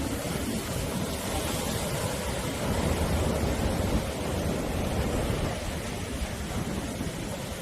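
Sea waves surging and washing on the shore: a steady rushing surf with a deep rumble beneath, swelling a little in the middle.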